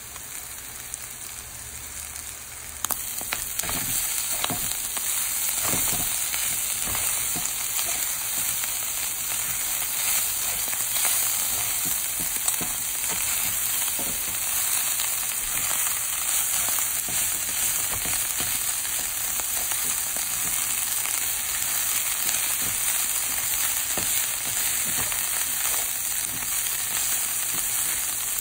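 Ground turkey, Italian sausage, bell peppers, onions and mushrooms sizzling in a skillet while being stirred with a spatula, with scattered scrapes and clicks. The sizzle gets louder about three seconds in and then holds steady.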